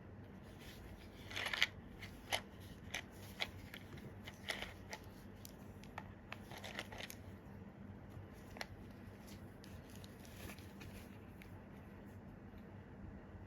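Packaging of a Square-1 puzzle cube being opened and handled by hand: irregular sharp clicks and crinkles, loudest about a second and a half in, thinning out after about eleven seconds.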